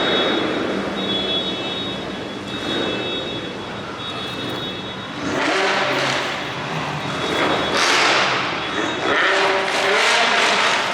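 Car engine revving: a steady background of noise, then several louder surges from about halfway through, each rising and falling in pitch.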